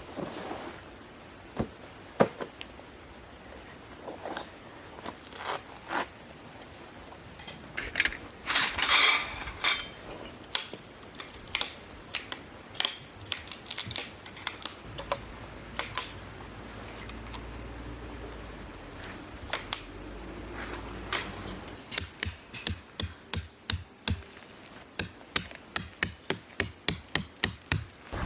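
Hammer strikes: scattered single knocks and clinks, then a quick regular run of blows, about three a second, for the last several seconds. A brief rustling burst comes about eight seconds in.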